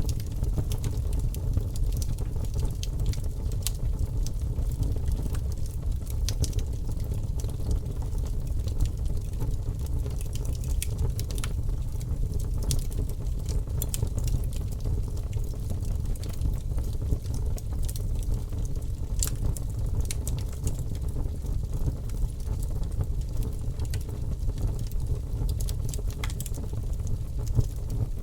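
Wood fire crackling in a fireplace: a steady low rumble with frequent small, irregular pops.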